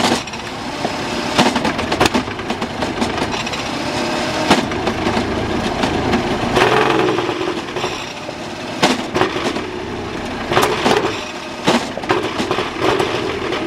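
Suzuki 750 two-stroke triple race engine running unevenly, its note rising and falling, with irregular sharp cracks through it.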